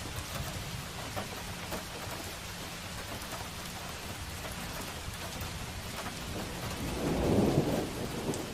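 Steady rain falling on hard street surfaces, with many small drips and patters. A brief low rumble swells and fades near the end.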